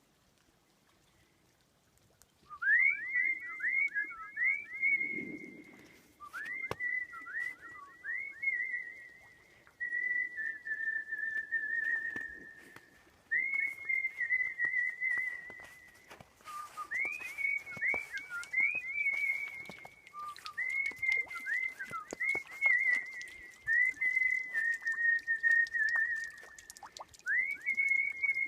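A person whistling a melody in the artistic whistling style: phrases of high, clear notes with quick upward slides into them, separated by short pauses. It begins about two and a half seconds in.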